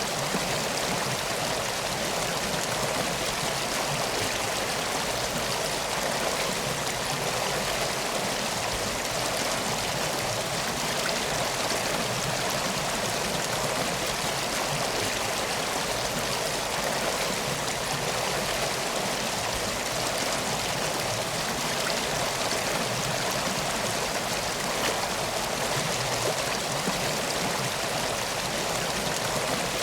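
A river flowing, a steady, even rush of water with no breaks.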